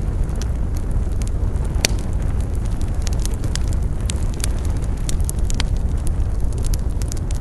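Wood campfire burning: frequent sharp, irregular crackles and pops of burning wood over a steady low rumble, with one louder pop about two seconds in.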